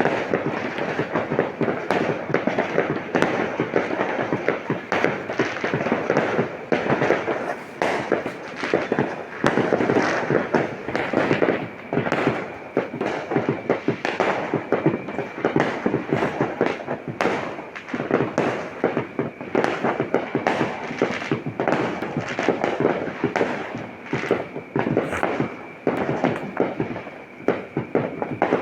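Dense New Year's fireworks and firecrackers going off all around, many bangs and cracks overlapping into a continuous crackling din with no let-up.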